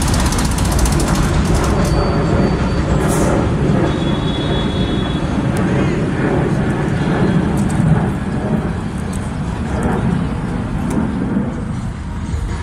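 City street traffic and a 6 train on the elevated steel structure overhead, making a steady, loud rumble with voices mixed in.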